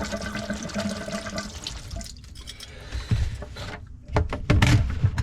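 Water running out of the tankless water heater's opened plumbing into a pan, strong at first and then tapering off. A few sharp knocks follow near the end as parts are handled.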